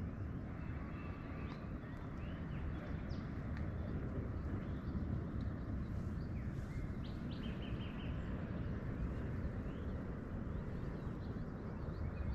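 Scattered bird chirps and short calls over a steady low rumbling noise.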